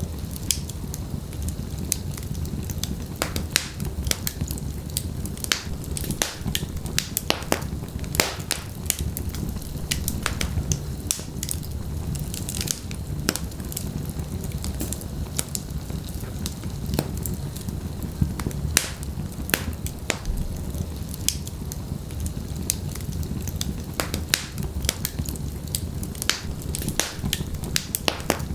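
Wood fire of burning logs crackling, with irregular sharp pops and snaps over a steady low rumble of the flames.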